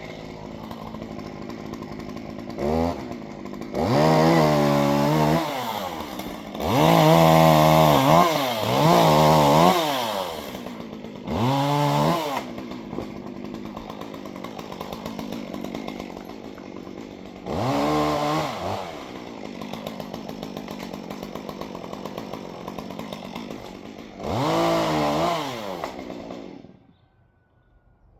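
Chainsaw idling, revved up in about seven bursts with the pitch rising and falling, then shut off near the end.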